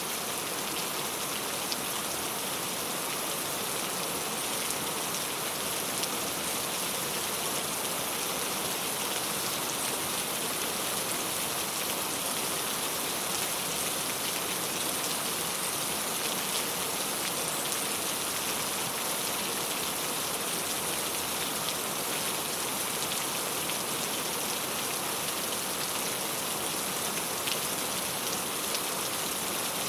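Steady rain falling on a clay tile roof, an even patter with the odd louder drop.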